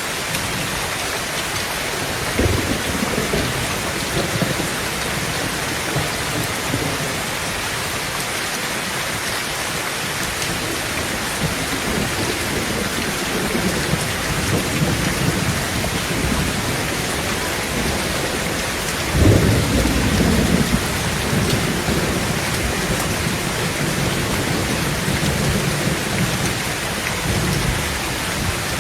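Heavy rain falling steadily on a tin roof, with thunder rolling under it: a short rumble a couple of seconds in, longer low rumbling midway, and the loudest thunderclap about two-thirds of the way through, rumbling on for a couple of seconds.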